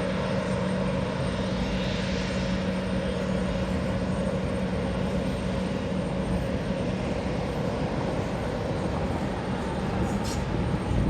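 Airliner's engines running steadily, an even rushing noise with a low steady hum that fades out about nine seconds in.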